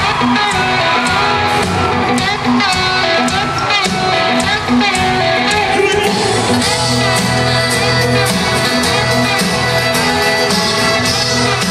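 Live country band playing an instrumental intro with a steady beat, electric guitars and drums, heard through a crowd's amateur recording.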